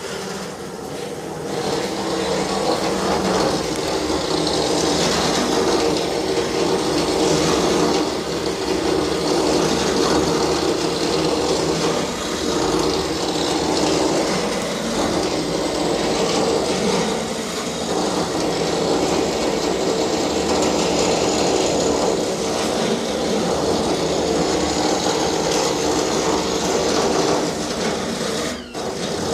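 Electric drill running continuously with a steady whine, dipping briefly about a second before the end.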